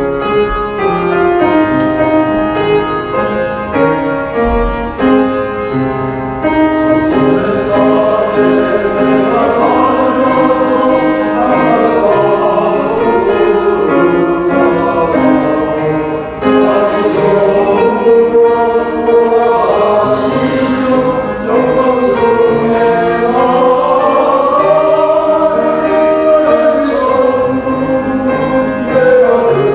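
Men's church choir singing a Korean gospel hymn with instrumental accompaniment. The first six seconds or so are an instrumental introduction, and the voices come in about seven seconds in.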